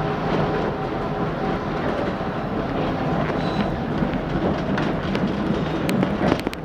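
CTA Brown Line elevated train running along the tracks, a steady rumble heard from on board, with several sharp clicks of the wheels over rail joints near the end.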